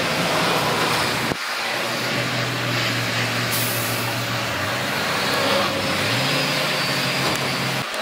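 Heavy diesel earthmoving machinery running steadily with a rumbling drone. The engine pitch rises twice, around the middle and near the end, and there is a short high hiss a few seconds in.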